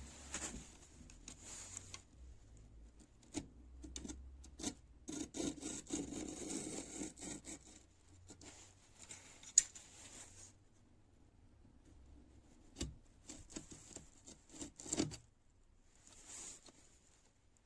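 Hand rubbing and scraping on a rusty wrench, in short irregular strokes with a few light knocks. There is one sharper click about ten seconds in.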